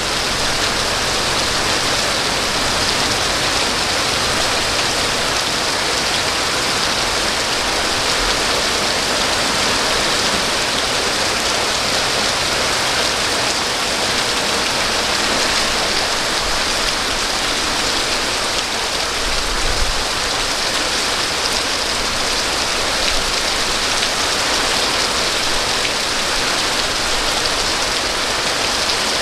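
Steady rain falling, an even constant patter with no letup.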